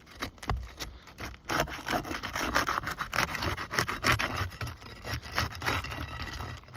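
Rapid, repeated scraping and rubbing against roof shingles, louder from about a second and a half in.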